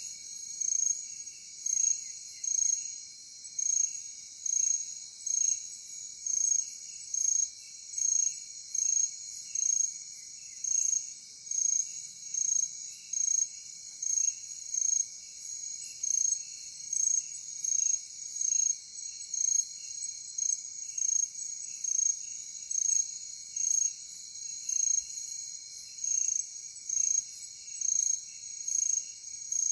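Night insect chorus: a cricket chirping in short, evenly spaced chirps about once a second, over a steady high insect drone and a softer, faster pulsing trill lower down.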